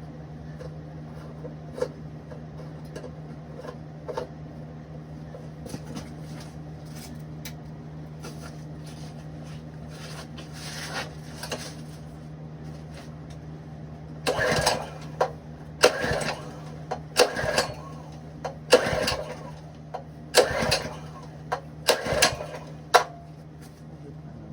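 Ironton 208cc single-cylinder engine being pull-started by its recoil rope: about seven quick pulls in the second half, each a short rasping whir, with the engine not catching. A steady low hum lies underneath.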